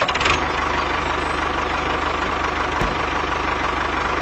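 A small motor-driven homemade machine running steadily, with a dense, even whirring noise.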